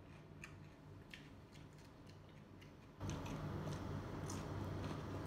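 Crunchy chewing of raw vegetables, broccoli among them: scattered short, crisp crunches close to the microphone. A low room hum gets louder about three seconds in.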